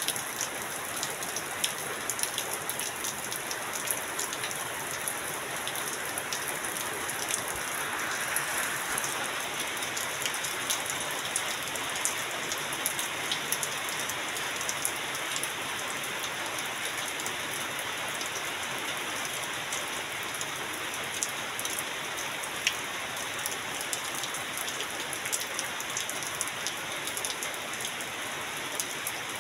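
Heavy rain falling on a corrugated metal roof, a steady hiss dotted with many sharp ticks of individual drops, with water running and dripping off the roof edge.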